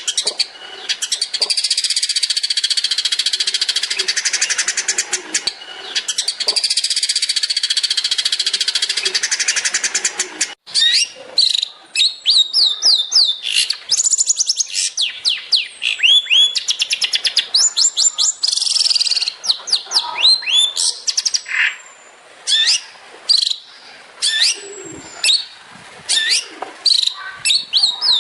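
Long-tailed shrike (cendet) singing: about ten seconds of dense, fast continuous chattering, then after a brief break a string of quick, sharply falling whistled notes in short bursts.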